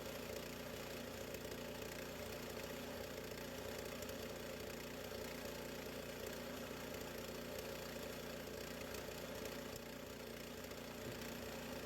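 Small gasoline engine of a Harbor Freight band sawmill running steadily at an even speed.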